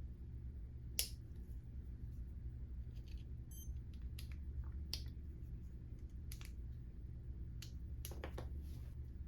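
Small sharp clicks and taps of hand tools and small metal parts while a Walbro diaphragm carburetor from a Stihl FS36 trimmer is taken apart, the loudest about a second in and a quick cluster near the end, over a steady low hum.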